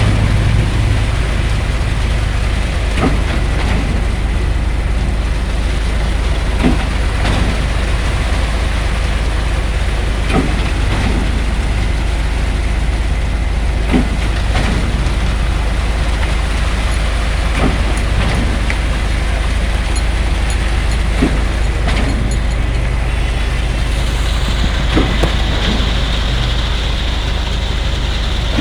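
Heavy diesel engines of a concrete pump and truck mixer running steadily while pumping concrete, with sharp knocks every few seconds. Near the end a higher whine joins.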